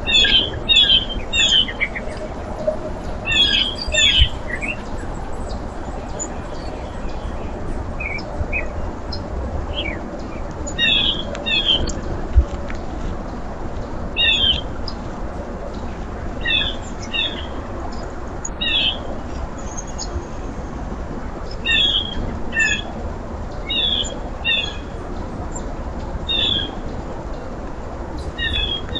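Small birds at a backyard feeder calling in short, sharp chirps, usually two or three in quick succession, repeated every second or two. A steady low rumble runs underneath.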